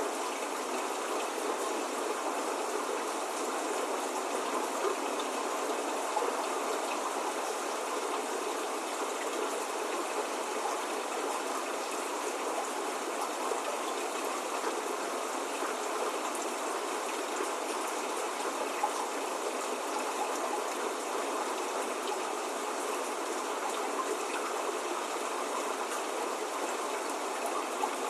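Steady spring rain falling, an even hiss with scattered individual drops and no thunder.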